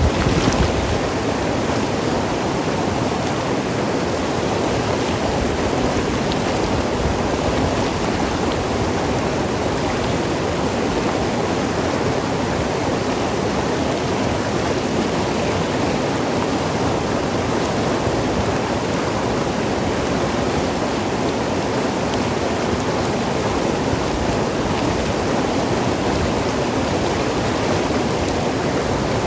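Mountain river tumbling over rocks: a steady rushing and gurgling of flowing water.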